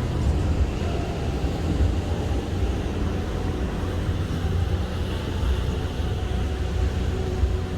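Steady low rumble of a ship under way at sea, mixed with wind noise and faint whistling tones from strong wind.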